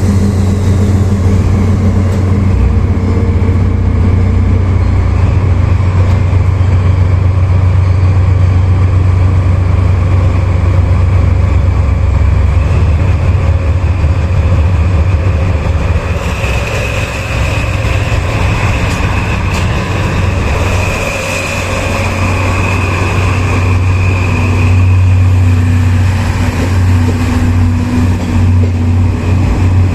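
Diesel engines of a DD51-hauled 14-series passenger train running with a steady, loud low drone while it stands ready to depart. A thin high tone joins about halfway through.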